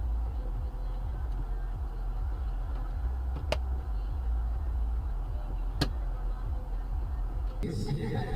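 Low steady rumble of a car driving, with two sharp clicks a little over two seconds apart.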